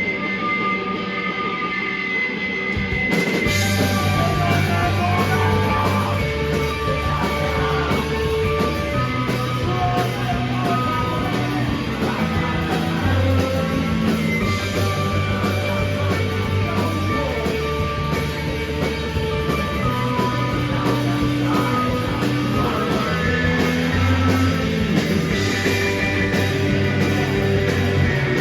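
Rock band playing live, an instrumental stretch with no vocals. An electric guitar plays alone for about three seconds, then drums with cymbals and bass come in and the full band plays on.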